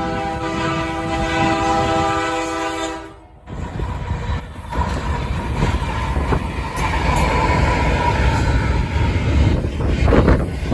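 Diesel locomotive's multi-chime air horn sounding one held chord that cuts off sharply about three seconds in. It is followed by the steady rumble and rail noise of an intermodal freight train rolling past.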